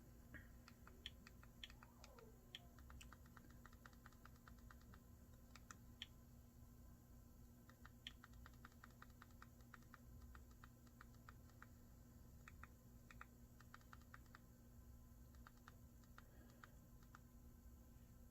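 Faint, irregular clicking, several small clicks a second in uneven runs, from navigating a Fire TV Stick's menus with the remote, over a low steady hum.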